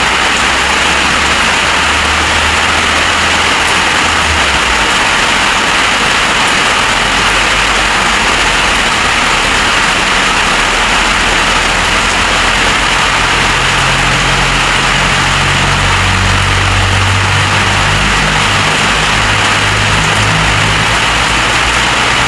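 Steady, loud rush of heavy storm rain, with low rumbling that rises and falls from wind on the microphone.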